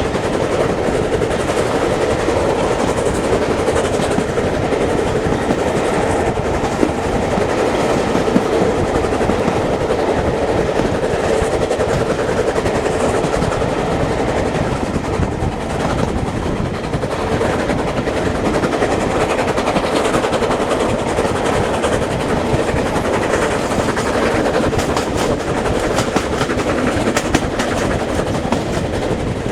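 Steam-hauled heritage train running along the track: a steady rumble of wheels on rails, with rapid clicks that grow more marked near the end.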